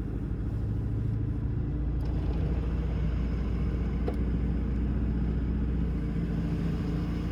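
A car driving, with a steady low rumble of engine and road noise heard from inside the cabin. A faint tick comes about four seconds in.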